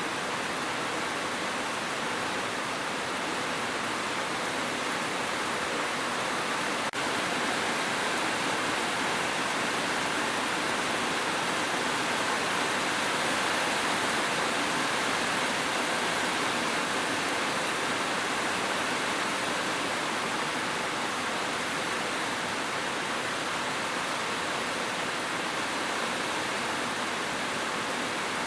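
Steady, even rain: a continuous hiss of countless drops with no single drop standing out. A tiny drop-out about seven seconds in.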